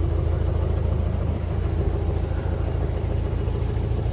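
Narrowboat's diesel engine running steadily at low revs, a continuous low rumble.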